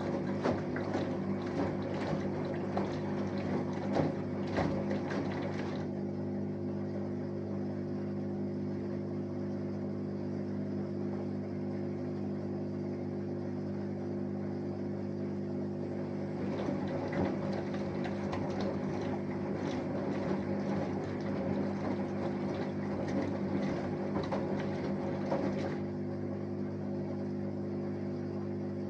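Samsung Eco Bubble front-loading washing machine with an inverter motor mid-wash: a steady hum from the machine under water sloshing in the tumbling drum. The sloshing drops away for about ten seconds in the middle, then returns.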